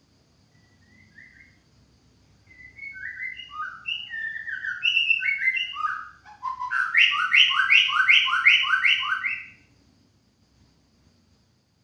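White-rumped shama (murai batu) singing: a run of varied whistled phrases that grows louder. It ends in a quick series of about eight repeated notes, then stops.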